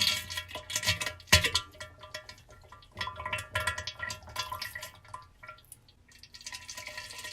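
Irregular sharp clicks and drips over ringing metallic tones, a tinkling, chime-like sound effect.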